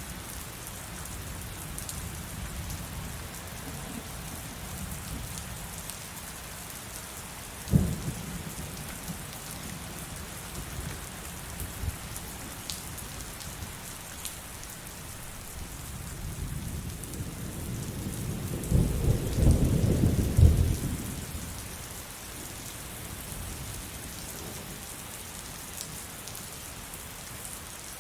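Steady heavy rain falling, with a sharp thunderclap about eight seconds in and a long low rumble of thunder building and peaking past the middle, then dying away.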